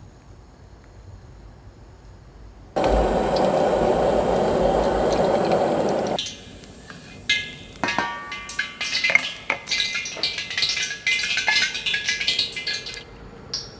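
Water running from a tap for about three seconds, switched on and off abruptly, followed by a run of dishes and utensils clinking and clattering.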